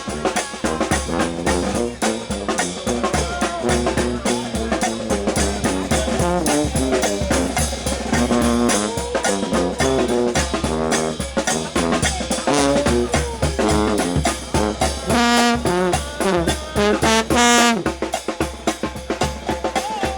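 New Orleans brass band playing a second line: trombones and trumpets over a steady bass drum and snare beat, with high trumpet notes held near the end.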